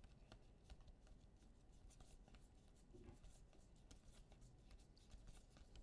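Near silence with faint, scattered soft clicks and rustles: trading cards being handled and flipped through between calls.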